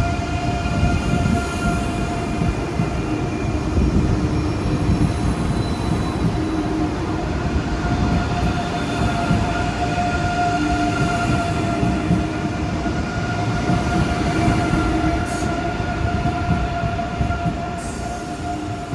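ICE 3M (DB class 406) high-speed electric multiple unit departing, its traction equipment giving the distinctive departure whine: steady tones layered over a low rumble of wheels and running gear, easing off slightly near the end.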